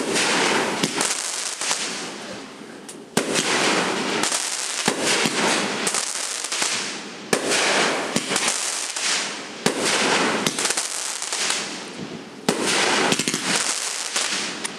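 Fireworks going off: a sharp bang every few seconds, each followed by a dense crackle that fades away.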